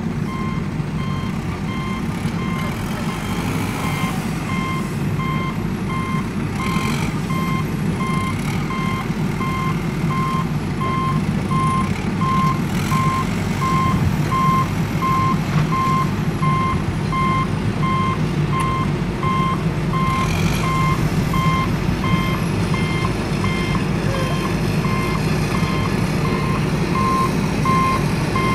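Truck reversing alarm beeping in a steady run of evenly spaced beeps over a continuous low engine sound.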